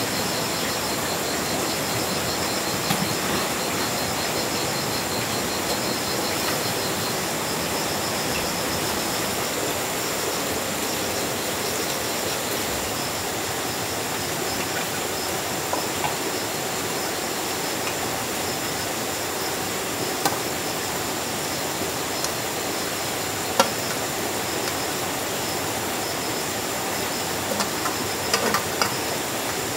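Steady hiss of rain, with insects chirping in a high, pulsing trill for the first several seconds and a steady high whine throughout. A few light clicks and knocks come near the end.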